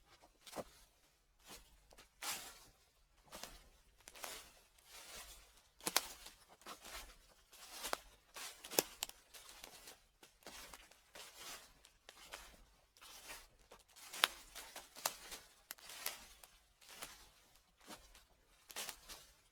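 Footsteps crunching and crackling through dry fallen leaves, about one step a second.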